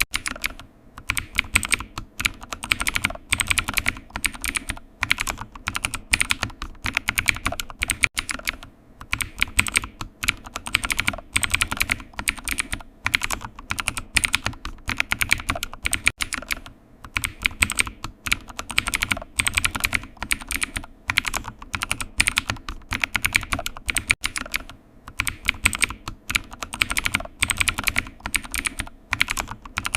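Computer keyboard typing: a fast, continuous stream of key clicks, broken by short pauses about every eight seconds.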